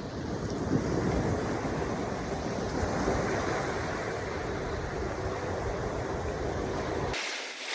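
Wind buffeting the microphone over the wash of waves, a dense, even rumble with no distinct events. The low rumble cuts off abruptly near the end.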